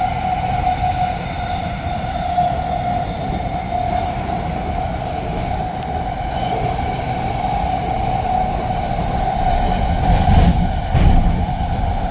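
SkyTrain car running along the track: a steady high whine from its linear induction motors over the rumble of the wheels on the rails. There are two louder jolts about ten and eleven seconds in.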